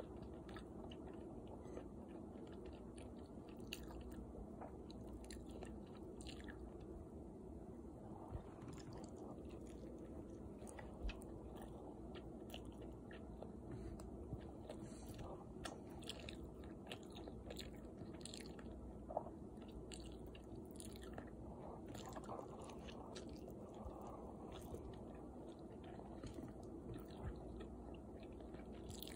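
Faint chewing and mouth sounds of someone eating sticky beet-cooked basmati rice with tuna salad: scattered soft clicks and a few sharper ticks over a low, steady hum.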